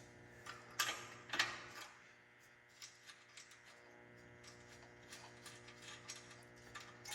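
Light metallic clicks and scrapes as the motorcycle's exhaust-valve servo cables are worked loose by hand, with two louder rattling scrapes about a second in and scattered small ticks after.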